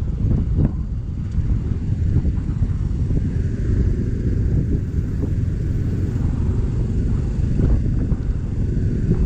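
Motorcycle being ridden along a road, its engine and road noise making a steady low rumble.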